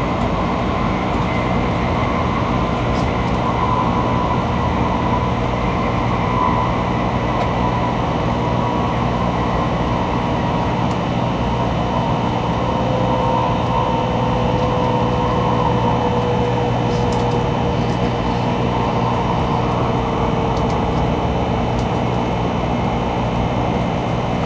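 Shinkansen bullet train running at speed, heard inside the passenger car: a loud, steady rumble of the running gear with a faint whine over it that falls slightly in pitch about halfway through.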